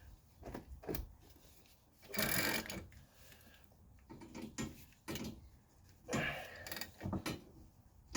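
Hand tools working a screw-type press against a seized shaft in a suspension bushing: irregular metallic clicks and knocks, with a longer scraping, ratcheting burst about two seconds in and another about six seconds in.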